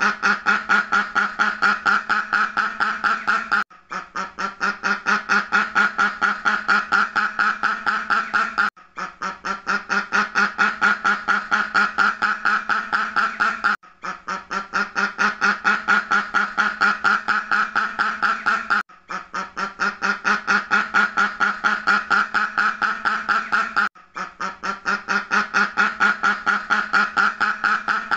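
Duck quacking in a rapid run, about eight quacks a second, in stretches of about five seconds with brief breaks between them; each stretch starts softer and builds, the same stretch repeating over and over.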